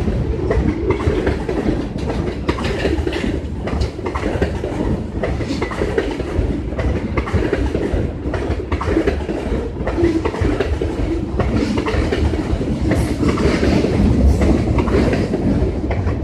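Railroad cars rolling past at close range, a continuous heavy rumble with wheels clicking and clattering over the rail joints.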